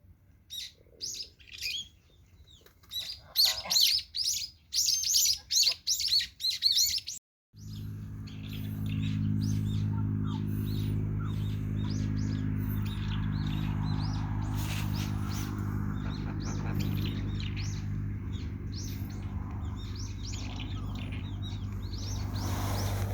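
Small birds chirping rapidly in quick high bursts. After about seven seconds the sound cuts off suddenly, and a steady low hum follows with a few faint chirps over it.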